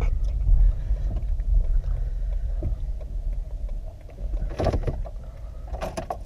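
Low rumble of a car rolling with its engine dead, fading as the car slows. Two short noises come about two-thirds of the way in and near the end.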